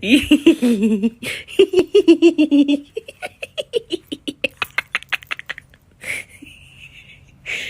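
A person laughing hard in rapid bursts, the laughter thinning into short breathy gasps and fading out about halfway through; a brief high-pitched sound follows.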